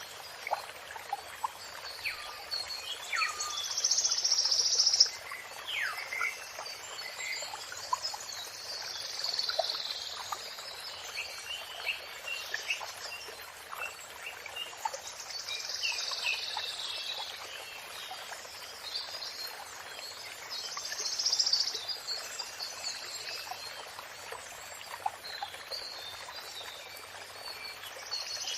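Songbirds singing in repeated high phrases every few seconds, with scattered short chirps, over steadily running water.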